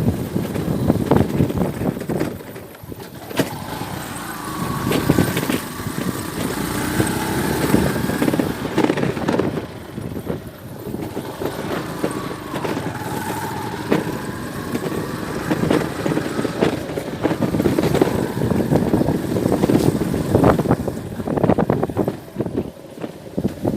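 Motor vehicle running on a road: steady engine and road noise with frequent short rattles and knocks, and a few faint wavering tones.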